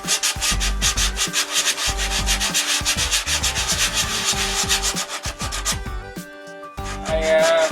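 Model airplane being sanded by hand with coarse 80-grit sandpaper: quick, even back-and-forth scraping strokes, several a second, with a brief pause about six seconds in. A short squeaky sound comes near the end.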